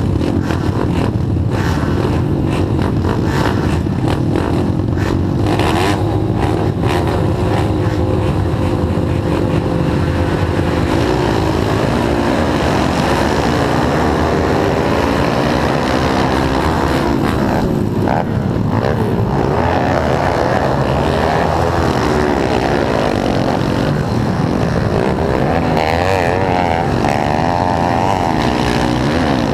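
Several pit bike engines running and revving at once, their pitches rising and falling as they are throttled on and off.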